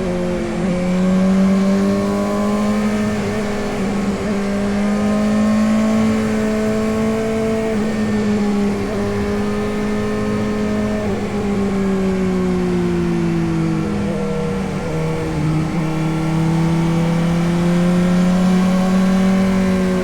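Suzuki GSX-S750's inline four-cylinder engine running steadily under way, its pitch rising and falling gently with the throttle.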